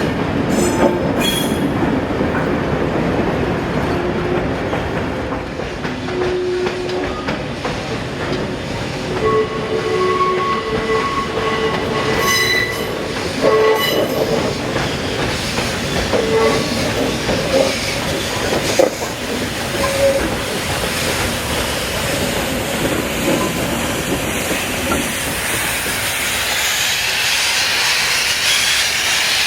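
Train running slowly through the station, its wheels squealing on the rails in short intermittent tones over a steady rumble and clatter. A hiss builds near the end.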